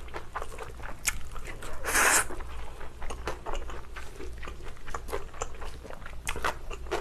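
Close-miked chewing of a mouthful of gimbap: irregular soft wet clicks and small crunches. There is one short, louder rush of noise about two seconds in.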